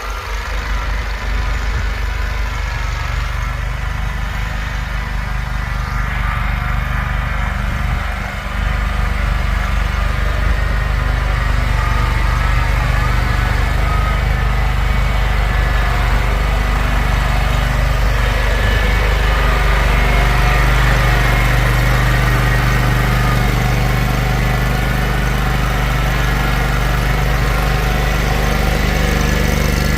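An engine running steadily, a little louder after about eight seconds.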